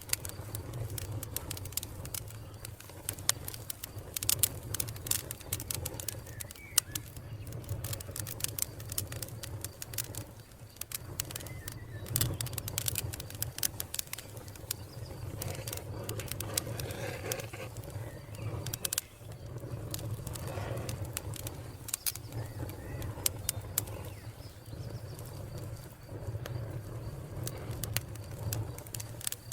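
Wood fire crackling, with dense irregular pops and snaps over a steady low roar of the flames. Birds call faintly in the background.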